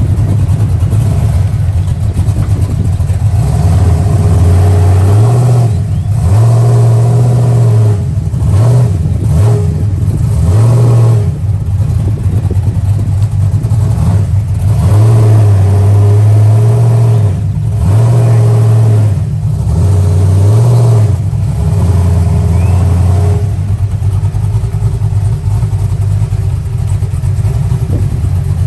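A car engine with a loud exhaust idling and being blipped repeatedly, about eight short revs of a second or two each, mostly in the middle of the stretch, before settling back to idle near the end. Its exhaust sound is called nasty.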